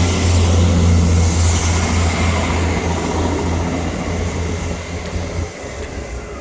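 A train running close by, with a loud, steady low drone that drops away about five and a half seconds in while the overall noise slowly fades.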